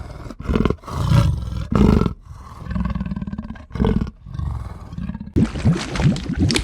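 A large animal giving a series of low, growling roars in separate bursts of under a second to about a second each. About five seconds in, a different, busier sound starts abruptly.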